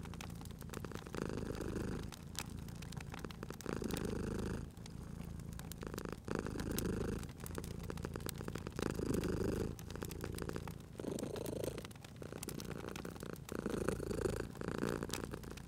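Domestic cat purring steadily, the rumble swelling and easing with each breath about every two and a half seconds. Small crackles and pops of a wood fire sound throughout.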